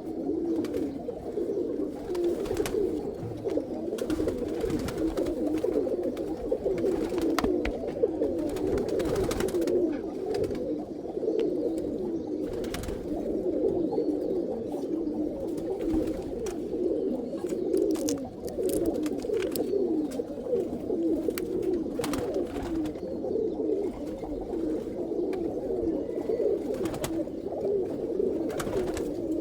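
Many domestic pigeons cooing at once in a continuous overlapping chorus, with scattered light clicks and knocks among them.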